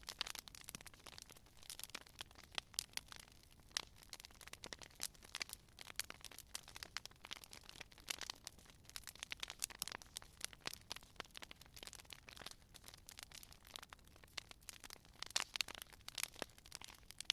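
Campfire crackling: irregular sharp pops and snaps of burning wood over a faint steady hiss, with a denser cluster of pops near the end.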